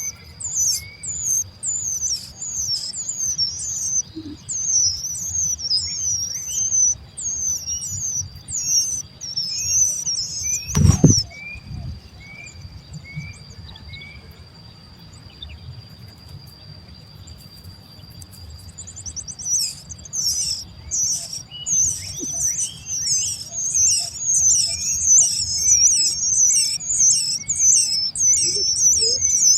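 Fledgling birds giving rapid, repeated high begging chirps waiting to be fed, several a second. The chirps fall away for several seconds midway and then come back denser. A steady high whine runs underneath, and there is one thump about eleven seconds in.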